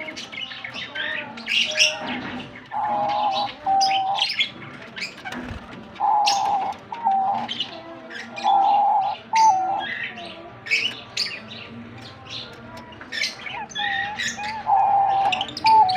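Several birds chirping over one another, and a dove cooing: a steady low note followed by a shorter one, repeated four times.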